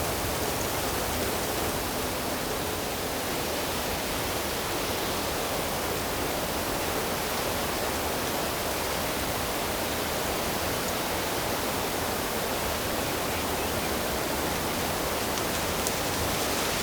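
Flowing water rushing steadily, an even hiss with no distinct splashes or calls.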